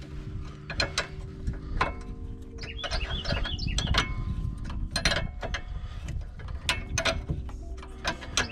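Hand ratchet wrench clicking in short irregular runs as a strut nut is worked loose, with vice grips holding the part so it doesn't spin.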